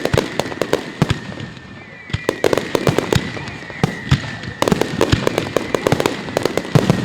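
Fireworks display: rapid, dense clusters of sharp bangs and crackles that swell and ease in waves, with a thin, steady high whistling tone running underneath.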